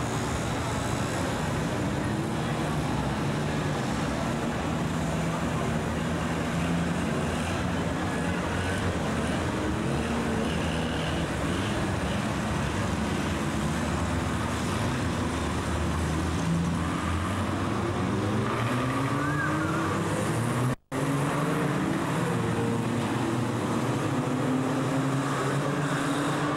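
Engines of a pack of old banger-racing cars running and revving, their pitch rising and falling as they circle. The sound drops out for an instant about three quarters of the way through.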